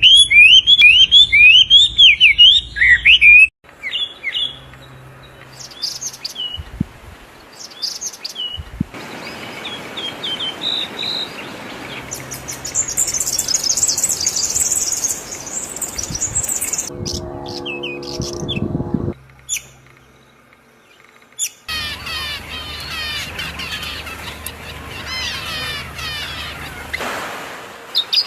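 Birds chirping and calling in a run of short clips that change abruptly every few seconds. A loud burst of rapid, repeated chirps opens it, and a lower call of several tones sounds a little past halfway.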